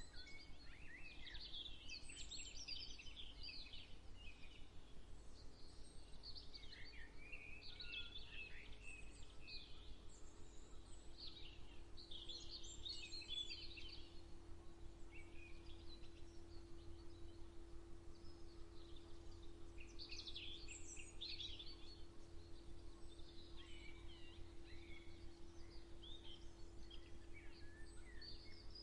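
Birds singing in scattered bursts of high chirping and warbling song, several phrases overlapping, over a faint steady low hum.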